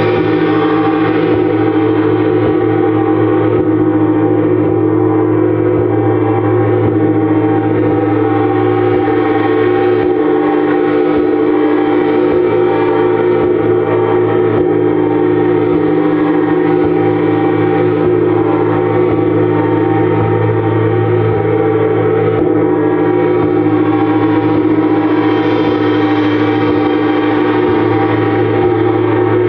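Gong played continuously in a sound-healing gong bath: a steady, sustained wash of many overlapping ringing tones, without distinct separate strikes, swelling a little now and then.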